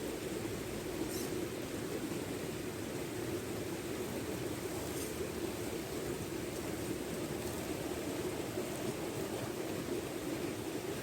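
Steady rushing of a river in flood, an even wash of water noise with no motor whine above it. Two faint short clicks come about a second in and again about five seconds in.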